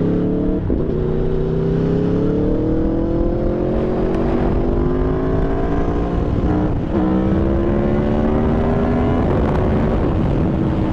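Aprilia Tuono V4's V4 engine through an SC-Project exhaust, pulling through the gears under way: its pitch climbs steadily, drops at an upshift just under a second in and again about seven seconds in, climbs again, then levels off near the end.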